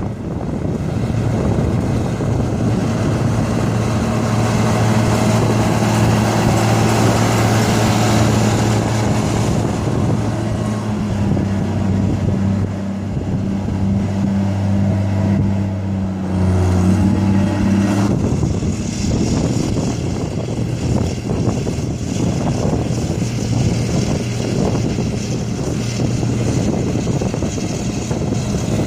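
A 1984 White 2-155 tractor's Caterpillar 3208 V8 diesel running with a steady pitched drone. About 18 seconds in the sound changes abruptly and the steady drone gives way to a rougher running sound.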